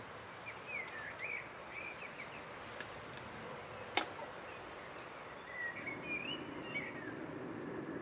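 Birds chirping over quiet outdoor background noise, with one sharp click about four seconds in and a low rushing noise building near the end.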